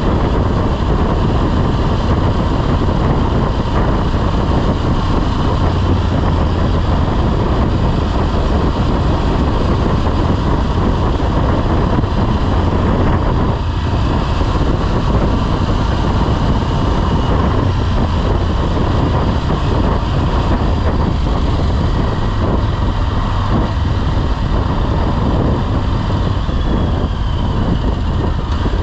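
Motorcycle being ridden at a steady pace, its engine running with wind rushing over the microphone.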